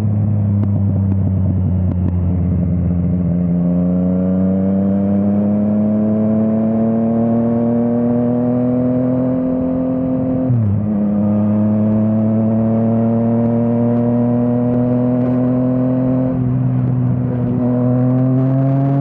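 Yamaha MT-09's three-cylinder engine through an Akrapovič exhaust, pulling under throttle with its pitch rising steadily. About halfway through the pitch drops sharply at an upshift, then climbs again, with a smaller dip and rise near the end.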